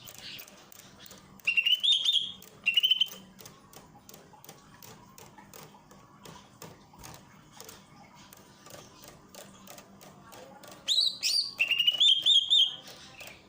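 Green leafbird (cucak ijo) singing in two short bursts of quick, rising, chattering notes, one about a second and a half in and another near eleven seconds in. Faint rapid clicks between the bursts.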